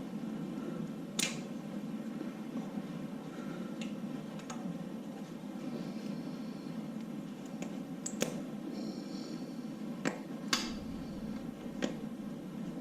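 Short, sharp metallic clicks and taps, about seven of them at irregular intervals, as parts are handled during an LS V8 engine teardown, over a steady low hum.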